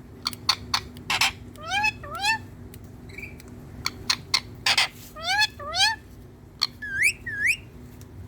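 Indian ringneck parrot vocalising: pairs of short squawks that rise in pitch, sharp clicks, and two harsh, noisy screeches.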